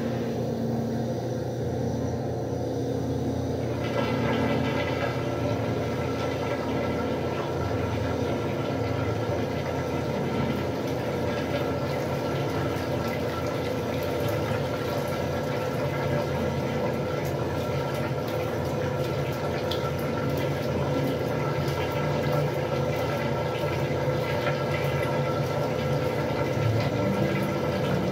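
Westinghouse washing machine running, with water rushing over a steady motor hum; the rushing grows brighter about four seconds in.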